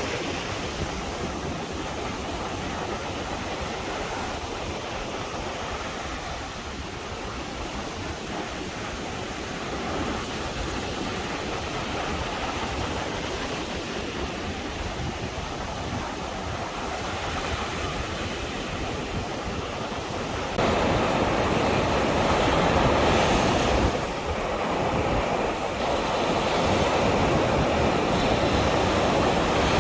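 Rough Caribbean surf washing onto a beach in a steady rush, with wind on the microphone. It gets abruptly louder about two-thirds of the way through.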